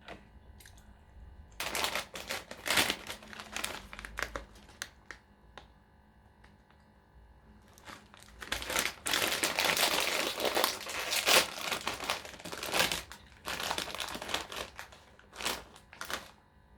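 Food packaging crinkling and crumpling in hand, in two long stretches with a short quiet gap between them.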